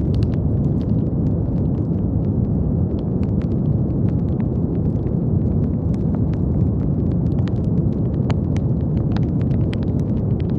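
Steady deep brown noise, a dense low rumbling hiss, with faint irregular crackles and pops scattered through it.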